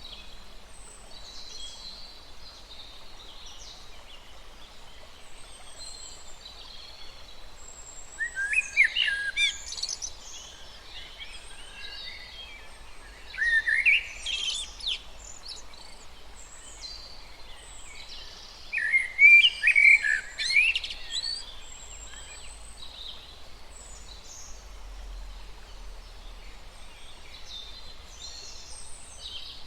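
Forest birds singing: three loud, rapid bursts of song, each a couple of seconds long, stand out over a steady chorus of fainter high-pitched chirps and calls from other birds.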